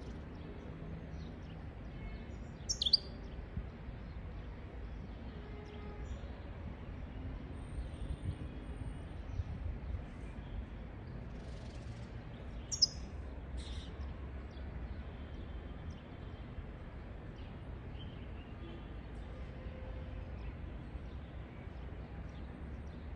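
European goldfinch giving sparse short chirps, two sharp falling calls standing out about 3 s and 13 s in, with fainter calls in between, over a steady low background rumble.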